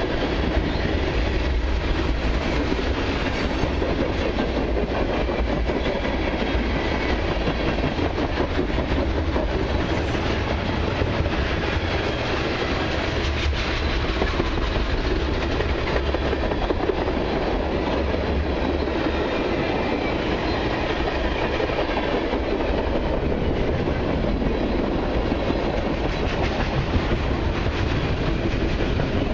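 Freight cars of a long autorack and mixed freight train rolling steadily past, a continuous rumble with wheels clicking over the rails.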